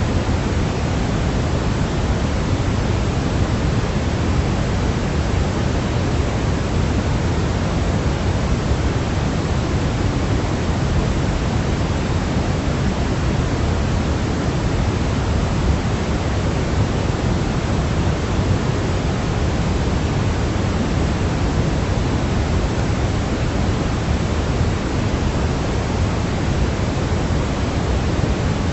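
Steady white noise played as a baby sleep sound: an even, unbroken rushing hiss, fuller in the low end than in the highs, with no change in level.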